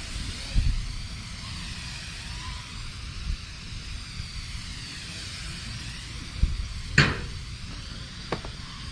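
Fine water mist from a garden hose nozzle spraying onto a dry-pour concrete slab to wet the dry mix: a steady hiss that swells and fades as the spray sweeps back and forth. A sharp click comes about seven seconds in.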